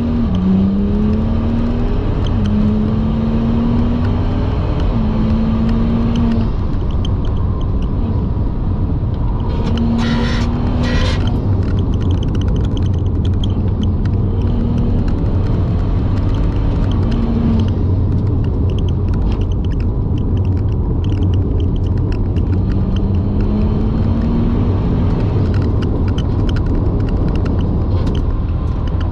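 BMW 135i's N55 turbocharged straight-six engine pulling up through the rev range and dropping back several times as the dual-clutch gearbox changes gear, heard inside the cabin over a steady low road rumble.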